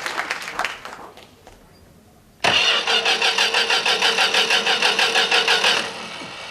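Applause dying away, then about two and a half seconds in, a car engine being cranked over: a loud, rhythmic starter churn at about six beats a second, lasting about three and a half seconds before dropping off.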